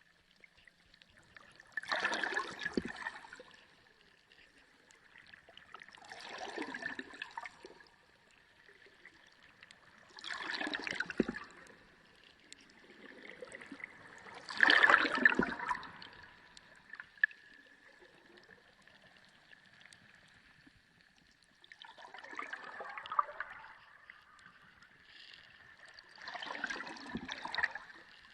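Underwater ocean recording: surges of gurgling, bubbling water every four seconds or so, over a faint steady hum.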